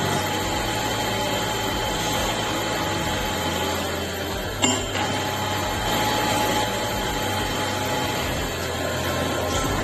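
A power tool running steadily, with one sharp knock about halfway through.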